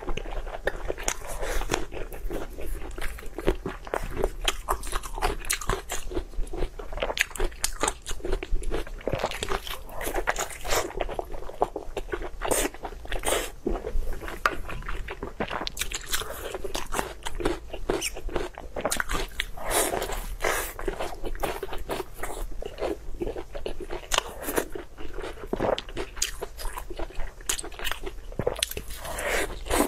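Close-up biting and chewing of braised tied pork intestine roll: a steady run of irregular wet clicks and crunchy bites, one after another.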